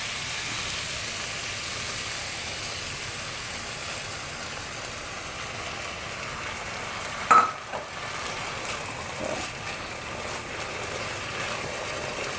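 Minced chicken sizzling steadily as it is stir-fried in sauce on high heat, with one sharp clank of the utensil against the pan about seven seconds in and a few lighter knocks after it.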